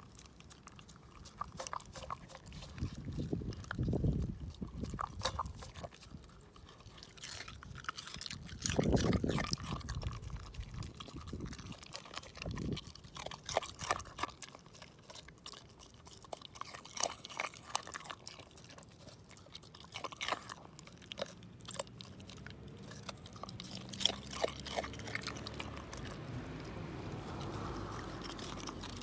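Shiba Inu chewing raw chicken wing tips, the small bones crunching in sharp irregular clicks. There are two heavier low thuds about four and nine seconds in.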